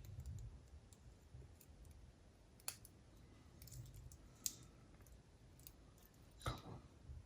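A few faint, sharp clicks over near silence, from small capacitors and test probes being handled on the bench while capacitors are checked with an ESR meter.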